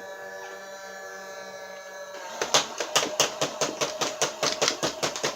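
Nerf Hyperfire motorized blaster with its flywheels spun up and whining steadily, then firing a rapid full-auto burst of darts, about six clicks a second, starting about two and a half seconds in. It feeds and fires cleanly with no jam.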